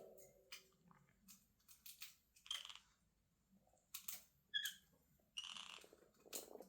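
Faint clicks and scratchy nibbling sounds from cockatiels preening each other with their beaks, with a brief high squeak about four and a half seconds in.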